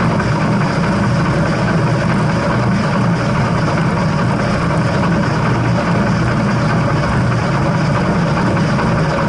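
A moving train's steady running rumble and rail noise, even throughout with no distinct beat.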